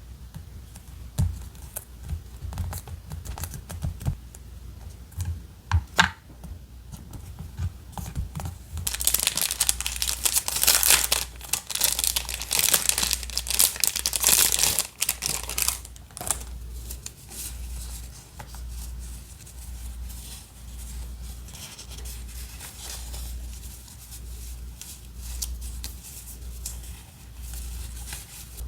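Paper being handled for journal decorating: a few light taps, then from about nine seconds in several seconds of loud crinkling and tearing of paper, easing into softer rubbing and rustling.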